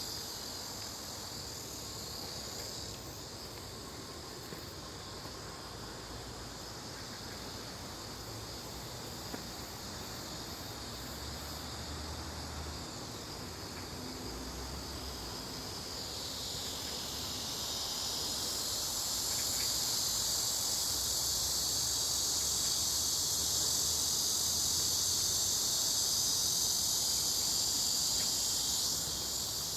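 Insects calling in a steady high-pitched chorus, growing louder a little past halfway through and easing slightly near the end.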